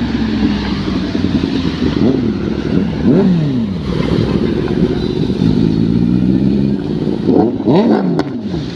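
Sport motorcycle engines running, with several quick revs whose pitch rises and falls, about two to three seconds in and again near the end.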